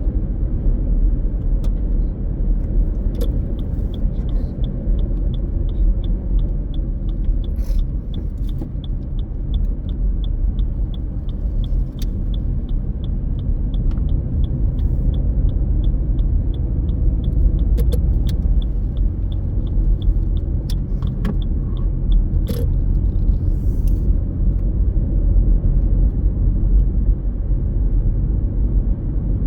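A car driving on the road: a steady low rumble of engine and tyres. Through the middle part a light, regular ticking, about two to three a second, runs along with it, with a few separate clicks.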